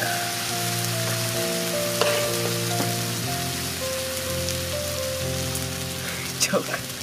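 Sausage slices sizzling as they fry in oil in a metal pan, a steady hiss, with a metal spoon scraping the pan about two seconds in and again near the end. Background music with held notes plays underneath.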